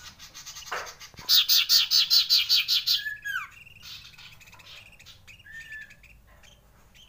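Common iora singing: a rapid rolling trill of about a dozen loud, high notes, about seven a second for nearly two seconds, then a short whistle that slides down in pitch and, a little later, one brief whistle.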